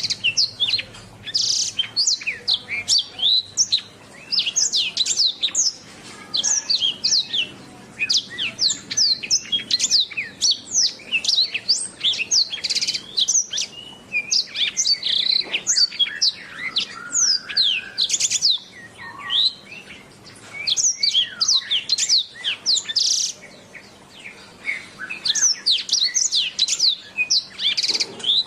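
Domestic canary singing a long, fast song of rapid trills and quick rising and falling whistles, broken by short pauses every few seconds.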